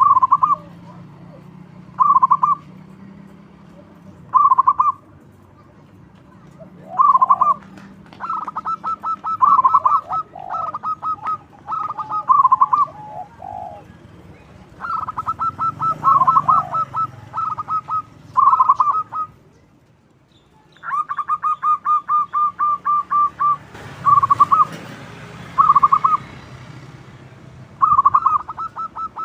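Zebra dove (perkutut) cooing loudly in repeated phrases of rapid staccato notes, some short, some drawn out into long rolling runs, with a brief pause about two-thirds of the way through.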